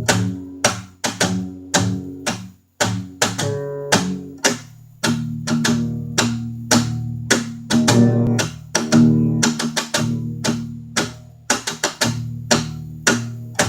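Texas blues guitar playing: a quick run of sharply picked notes and chords over sustained low bass notes.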